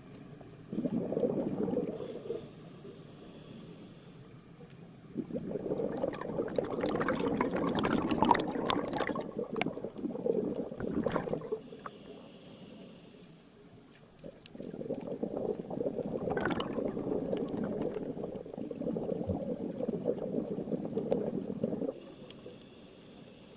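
Scuba regulator breathing underwater: a soft hiss of inhalation alternating with bubbly rumbling bursts of exhaled air, three exhalations in all, the first short and the next two long.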